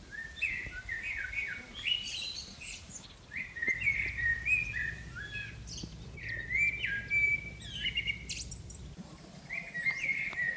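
Small birds chirping: bouts of quick, bright chirps and short rising notes, each bout lasting about two seconds with brief pauses between.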